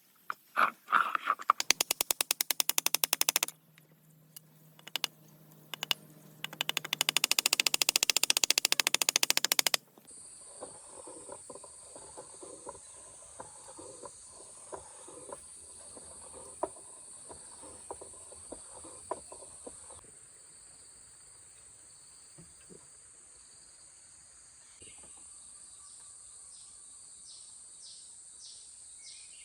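Two loud bursts of very fast, even rattling clicks, the second about 3 seconds long, then steady high insect chirping, likely crickets, with scattered faint crackling beneath it.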